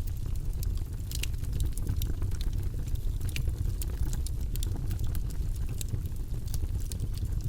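Campfire burning with a steady low rumble of flames and frequent sharp, irregular crackles and pops from the wood.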